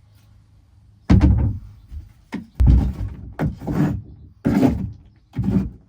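A run of about eight heavy thumps and knocks at an irregular pace, the loudest about a second in and again near the middle: pounding out a cut section of rotten wood core and fiberglass from a boat hull.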